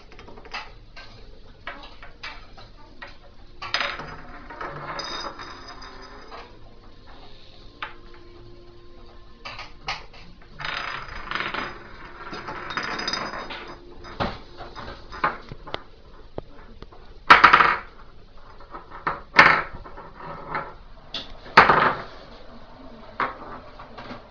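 Pet budgerigar chattering, with many small clicks and ticks and thin high whistles, and a few loud sharp chirps in the last third.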